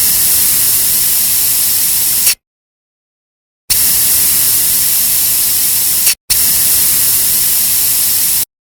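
Compressed air blowing dust out of a water chiller's dust gauze filter: three bursts of loud hiss, about two and a half, two and a half and two seconds long, each cutting on and off sharply.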